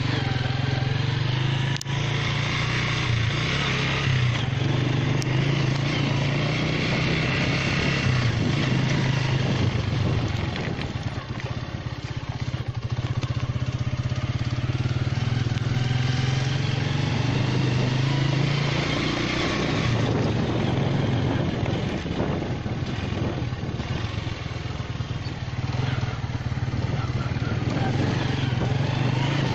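A motor vehicle's engine running as it drives along a road, a steady low drone that eases off twice, under a haze of road and wind noise.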